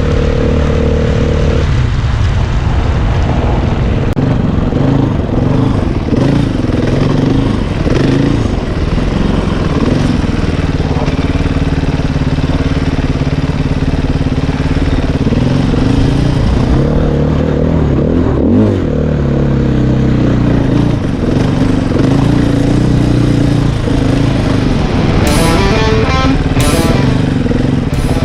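Off-road motorcycle engine running hard, its pitch repeatedly rising and falling as it revs up and drops back.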